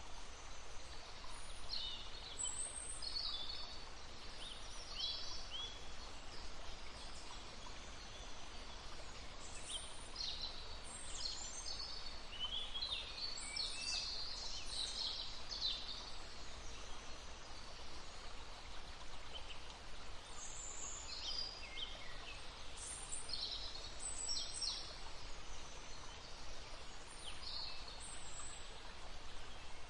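Songbirds singing and calling in short chirps and trills over the steady babble of a stream, the birdsong thickest about a third of the way in and again past the middle.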